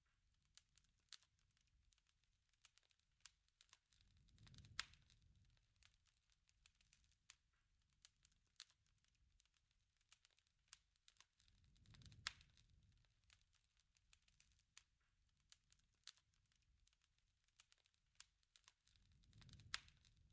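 Faint crackling of a wood fire, with many small irregular pops and snaps. A low rush swells and fades about every seven and a half seconds, each time with one sharper pop.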